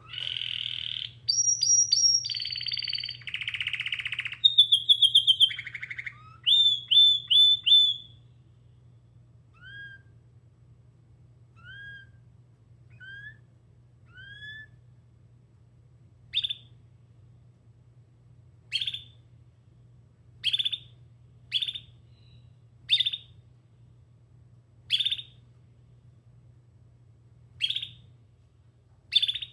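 Domestic canary singing: a run of rapid trills and rolls lasting about eight seconds, then four soft rising chirps, then short sharp call notes repeated every second and a half to two seconds.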